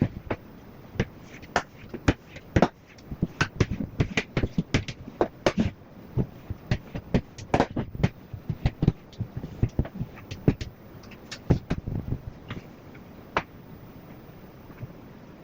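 A quick, irregular run of sharp clicks and light knocks, several a second, thinning out near the end.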